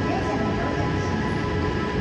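Hankyu electric train at the platform, with a steady rumble and several constant high tones from its electrical equipment. Faint voices murmur on the platform.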